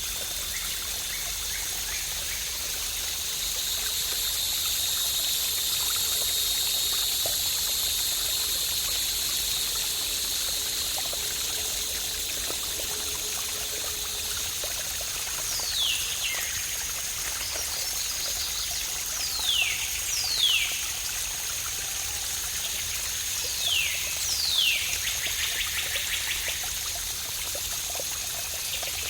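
Waterfall water pouring in a steady, even hiss. From about halfway through, a bird gives about five quick calls that slide sharply downward, the last followed by a short rattling trill.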